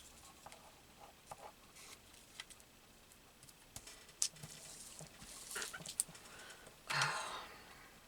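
Faint paper and glue-bottle handling at a craft table: scattered light ticks and short rustles, with a louder breathy rustle about seven seconds in.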